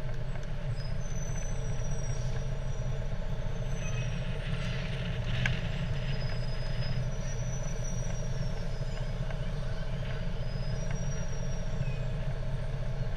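Fire truck engine running steadily, a low unbroken drone, with faint voices and a sharp click about halfway through.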